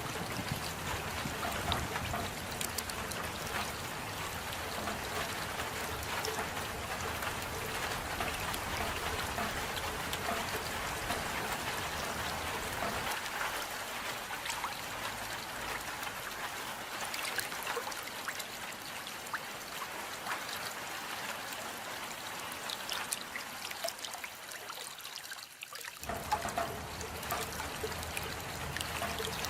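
Steady rain with fine pattering drops and trickling runoff water. The deeper part of the sound thins out partway through and drops away for a moment near the end before the full rain sound comes back.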